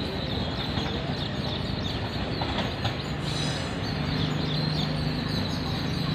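Train on the line in the distance: a steady rumble, with a low steady hum coming in about three seconds in, under birds chirping.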